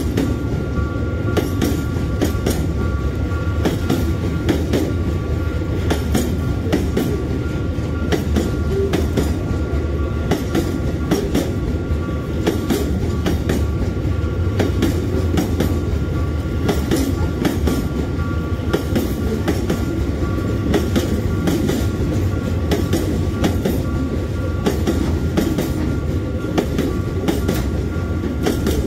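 Freight train of hopper wagons rolling past close by: a steady rumble with rapid clicks of wheels over the rail joints, and a steady high tone above it.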